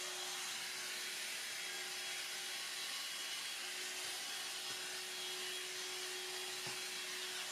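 Hoover Air Cordless 20V lithium-ion handheld vacuum running steadily: an even motor whine over the rush of air being sucked in.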